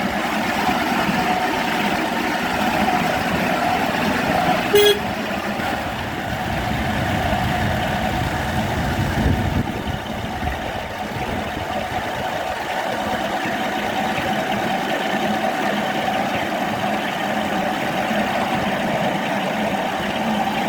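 Electric locomotive running along the track with a steady whine and rolling noise. It gives one short horn toot about five seconds in.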